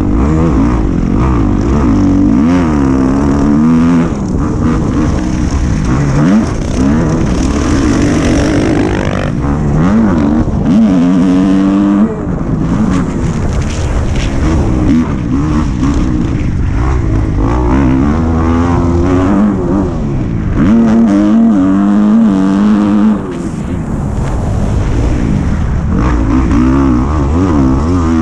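Dirt bike engine being ridden hard, its pitch climbing and dropping again every second or two as the throttle opens and closes.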